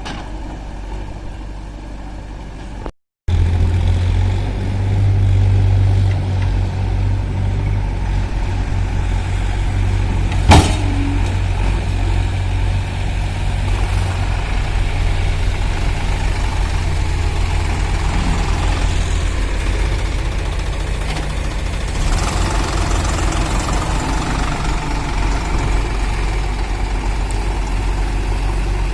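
Heavy diesel engines of a farm tractor and a backhoe loader running steadily under load. A brief cut about three seconds in, after which the engine is louder, and one sharp knock about ten seconds in.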